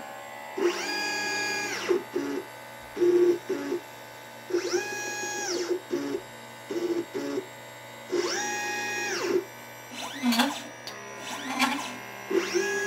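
LitePlacer pick-and-place machine's stepper motors driving the gantry between moves: a whine that ramps up in pitch, holds for about a second, then ramps down, repeating about every three and a half seconds. Short, lower buzzes come in between.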